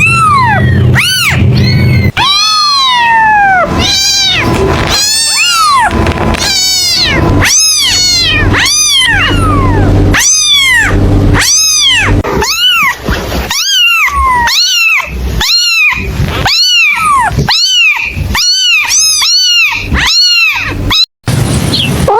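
Kitten meowing over and over, loud high-pitched meows that rise and fall in pitch, about one a second, with a brief break near the end.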